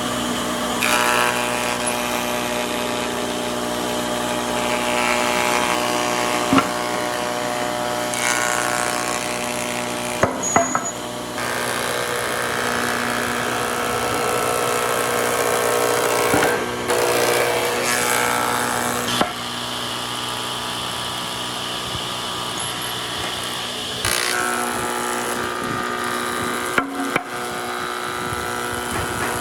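Electric woodworking power tools running on wood, a steady motor hum with the hiss of cutting or sanding. The sound changes abruptly several times as one tool or cut gives way to another, with a few sharp knocks.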